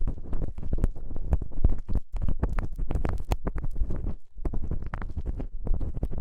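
Ear-cleaning tool scraping and scratching inside an ASMR microphone's ear: a dense run of crackling scrapes over a muffled rumble, with two short pauses.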